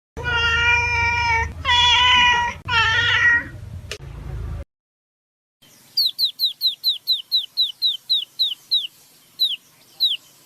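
A cat meowing three times in long, drawn-out meows. After a short pause, a bird gives a run of short, falling chirps, about four a second, with two more spaced out near the end.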